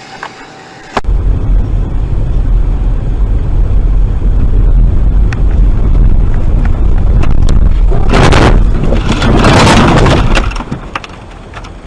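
Loud, steady low rumble of a vehicle on a dashcam recording. It starts suddenly about a second in, swells into two loud rushing surges about eight and nine seconds in, and dies away near the end.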